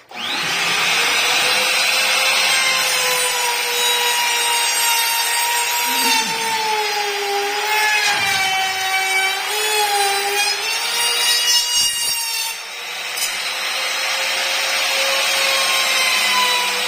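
Electric router starting abruptly and running at high speed with a steady whine, cutting a groove into wood. Its pitch sags for a few seconds in the middle as the bit bites into the cut, then recovers.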